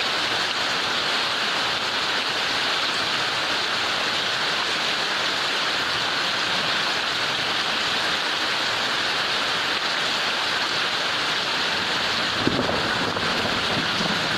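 Heavy rain falling steadily, a dense even hiss. A low rumble joins in near the end.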